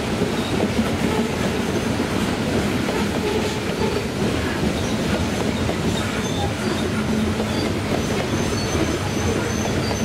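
Loaded coal train of open hopper cars rolling past, a steady rumble of steel wheels on rail with rapid fine clicking, and a faint high-pitched wheel squeal in the second half.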